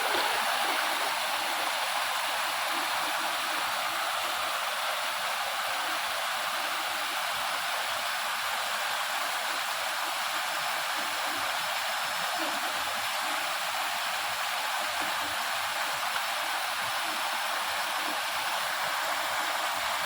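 River water flowing, a steady, unbroken rushing of water.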